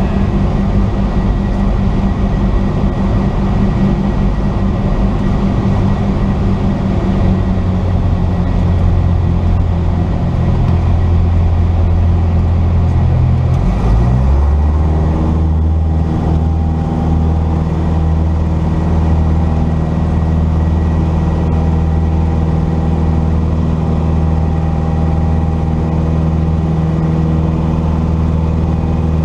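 Cessna 172's piston engine and propeller droning steadily, heard inside the cabin. About halfway through the engine note shifts with a power change, then settles into a new steady drone.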